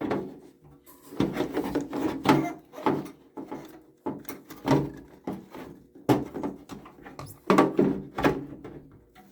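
Repeated knocks and clunks of tankless water heater parts being handled and fitted back together, about eight louder ones spread irregularly through the stretch.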